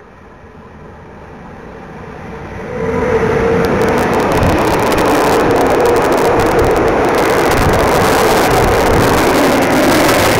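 Freight train hauled by an electric locomotive approaching and passing close by. The sound swells as it nears, then jumps about three seconds in to a loud, steady rumble of wheels on rails, with a run of sharp clicks from the wheels over the next few seconds.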